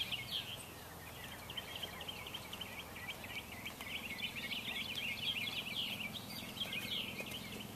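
Birds chirping in a dense, continuous chorus of short, high chirps.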